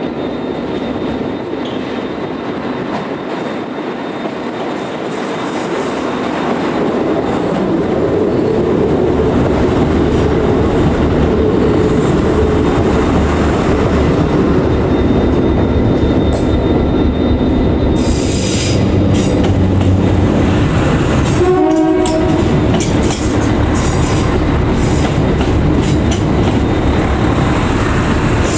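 Northern Ireland Railways CAF diesel multiple unit running through the station, its rumble and wheel noise on the rails growing louder as it comes close, with a short horn toot about three-quarters of the way through.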